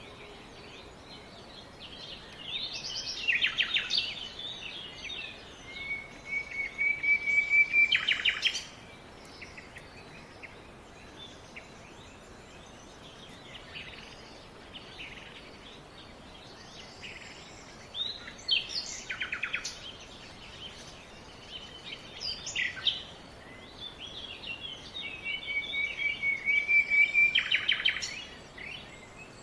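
Songbirds singing in several bouts of quick chirps and fast trills, with a steady background hiss between the songs.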